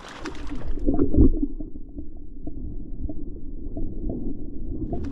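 Creek water splashing, then the muffled, low rumble and gurgle of a microphone dunked under the water, with all the higher sound cut off; the clear splashing comes back at the very end as it surfaces.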